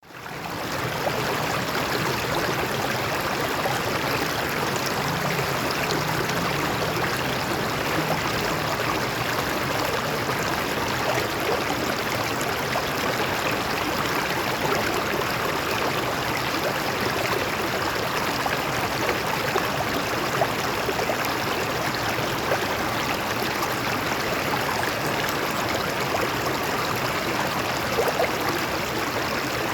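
Water flowing over rocks in a stream, a steady rushing, babbling sound that fades in during the first second.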